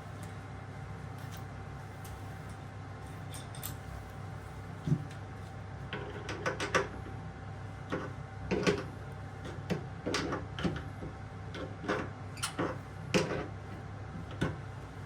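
Scattered clicks and knocks of hard parts and tools being handled during a kitchen faucet installation, bunched into short clusters over a steady low hum.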